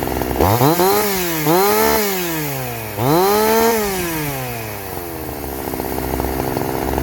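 Stock two-stroke chainsaw with its factory muffler and factory carburettor tuning, revved three times in quick succession from idle, each rev rising and falling, then settling back to a steady idle.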